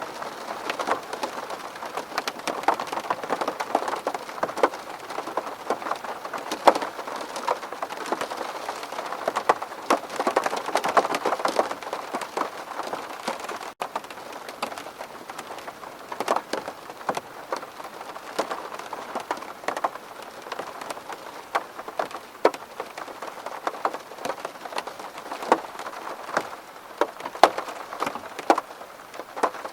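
Rain falling on a window pane: a dense, steady patter with many separate drop ticks on top. The sound breaks off for an instant about fourteen seconds in.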